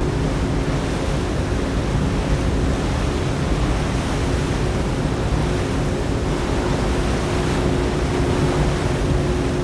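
Motorboat engine running at a steady pitch under a loud rush of wind and water.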